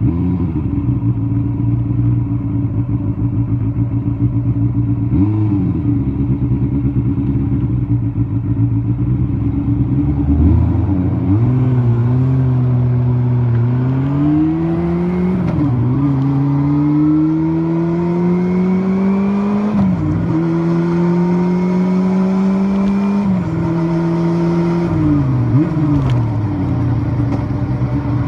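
First-generation Kawasaki Balius 250's water-cooled inline-four running at a steady low speed, with a short blip of the throttle about five seconds in. From about ten seconds in it accelerates: the note climbs in pitch several times, each climb cut by a sudden drop as at a gear change. Near the end the revs fall away and it settles to a steady note.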